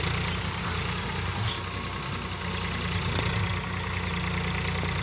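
Powertrac Euro 50 tractor's diesel engine running steadily at a low, even speed.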